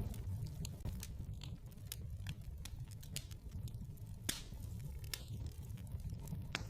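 Wood fire in a fireplace crackling, with irregular sharp pops over a steady low rumble of the flames; two louder pops come past the middle and near the end.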